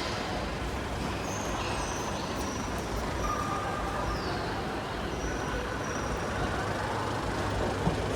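Steady low background rumble with several brief high-pitched squeaks, one sliding slightly downward about four seconds in: sports shoes squeaking on a badminton court.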